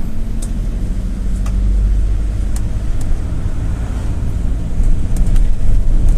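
Cabin noise of a GAZelle City minibus under way: a steady low rumble of diesel engine and road, with a few short rattles and clicks, growing a little louder near the end.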